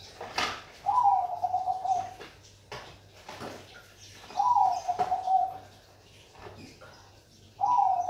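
Zebra dove (Bangkok perkutut) singing its cooing song: three alike phrases about three seconds apart, each opening a little higher and settling into a fast trilling coo. Short clicks sound between the phrases.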